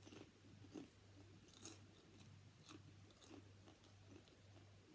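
Faint close-up chewing with soft, irregular crunches and mouth clicks, one louder crunch about a second and a half in.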